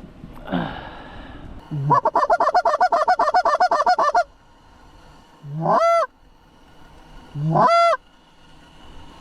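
Canada goose honking and clucking, close and loud. A short call comes first, then a fast run of about ten clipped clucks a second lasting a couple of seconds. Two drawn-out honks follow, each starting low and breaking sharply upward in pitch.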